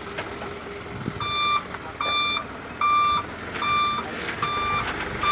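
Dump truck's reversing alarm beeping as it backs up to unload, starting about a second in and repeating about once a second, over the engine running.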